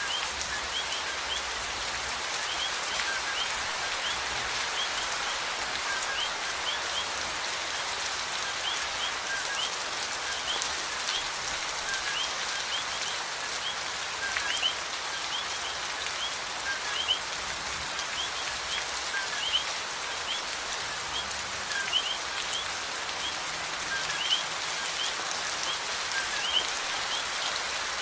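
Steady rain falling, a continuous even hiss, with short high chirps repeating throughout. In the second half a louder drop or drip stands out every two to three seconds.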